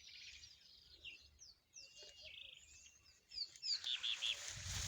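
Wild birds chirping and calling, with many short high notes, some sliding downward. About three and a half seconds in, a steady hiss joins them, with a low rumble near the end.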